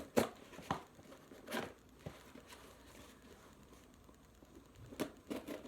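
Bubble wrap and packing crinkling and rustling as a package is unwrapped. It comes in a few brief rustles, with a quieter lull from about two to five seconds in.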